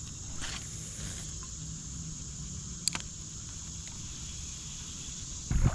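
Steady, high-pitched summer insect chorus, crickets or similar, with a sharp click about three seconds in and a low thump near the end.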